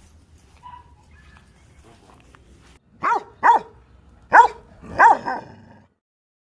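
A dog barking four times, in two quick pairs, the last bark drawn out a little longer.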